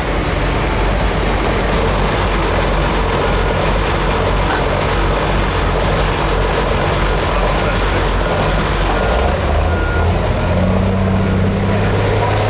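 Turbocharged pro stock diesel pulling tractor running hard and loud, a dense steady engine noise. Its low even engine tone comes back at a changed pitch near the end as the engine eases off.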